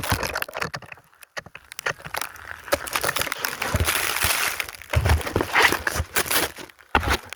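Close handling noise on a phone in a waterproof case as snow is wiped off the lens: irregular rubbing, scraping and crinkling on the microphone, with short pauses.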